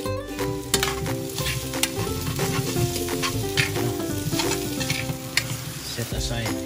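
Potato chunks frying and sizzling in a skillet, turned over with metal tongs that click and scrape against the pan.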